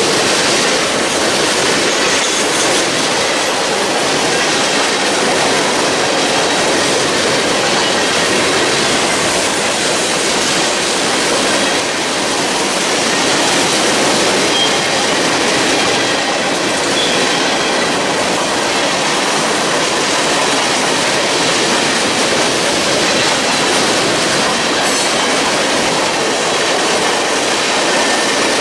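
Railroad cars rolling past close by: a loud, steady noise of steel wheels running on the rails.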